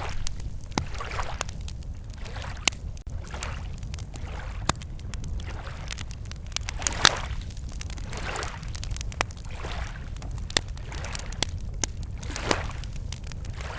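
Wood campfire crackling with frequent sharp pops, while small waves lap against the lakeshore in soft swells every second or two.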